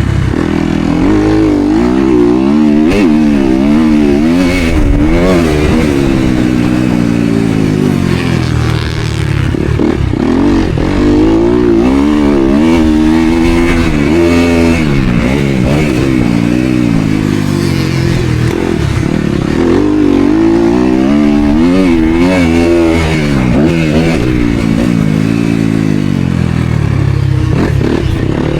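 Motocross dirt bike engine under race load, revving up and down over and over, its pitch climbing and dropping every second or two as the rider accelerates, shifts and rolls off the throttle.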